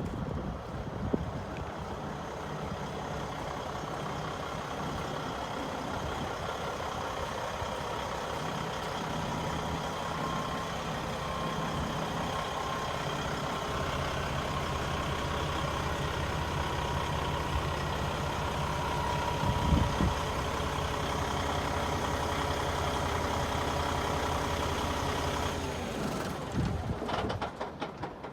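Diesel engine of a Kenworth T660 truck tractor running steadily; its note changes about halfway through. The sound breaks up and fades near the end.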